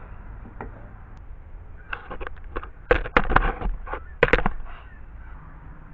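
A run of sharp knocks and clatters from handling tools or gear, bunched in the middle, with the loudest near three and four seconds in.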